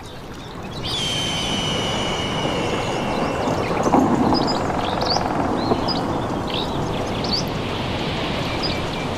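Steady rain with a low rumble of thunder swelling in about a second in, and birds chirping over it. A high, steady drawn-out note is heard for a couple of seconds near the start.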